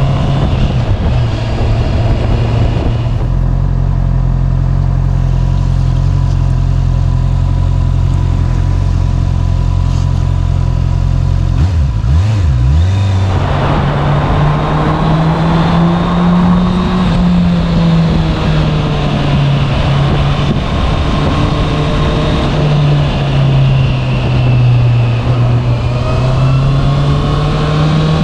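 Honda CB650R's inline-four engine through its standard exhaust: a steady idle for about twelve seconds, then, after a brief blip, the revs rise and fall as the bike gets under way.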